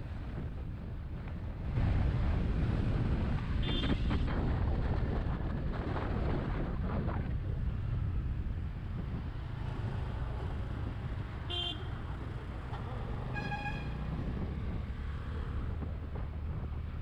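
Road traffic heard on the move: a steady rumble of engines, tyres and wind, with vehicle horns tooting three times, briefly twice and then a little longer.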